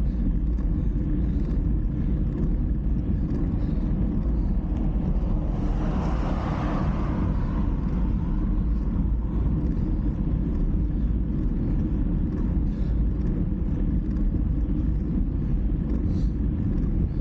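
Steady low rumble of wind and road noise on a riding microphone, with a passing vehicle swelling up and fading away about six seconds in.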